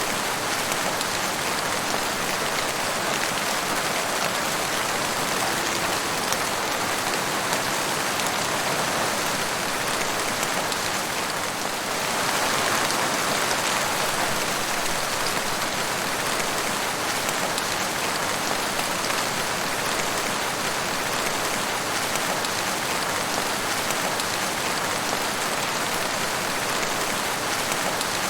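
Steady rain falling on forest foliage, an even hiss of drops with no let-up, growing slightly heavier about twelve seconds in.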